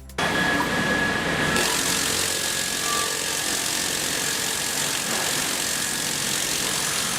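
Sawmill machinery running: a loud, steady mechanical din with a thin high whine over it, starting abruptly just after the start.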